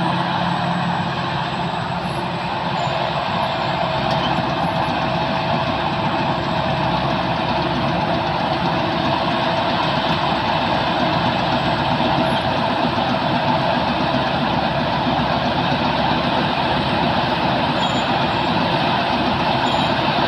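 Sakdi Pattana KM-D rice combine harvester running steadily under load as it cuts and threshes lodged rice: diesel engine and threshing machinery with a steady whine.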